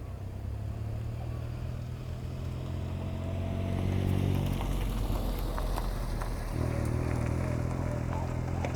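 A motor vehicle's engine running as a low, droning hum that swells about halfway through and again near the end, with scattered light clicks over it.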